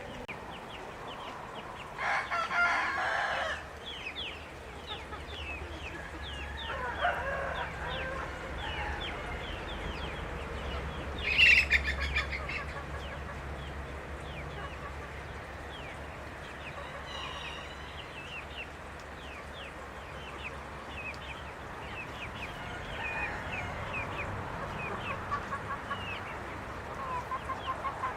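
Poultry flock calling: many short chirps and clucks throughout, with two louder calls standing out, one about two seconds in lasting over a second and a shorter, higher one about eleven seconds in.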